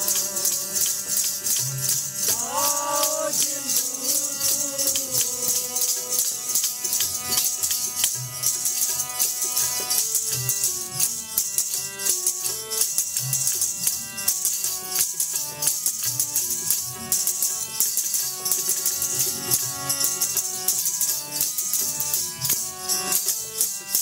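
Devotional Sikh kirtan music: held, sustained chords with a continuous shaking, jingling rattle keeping time.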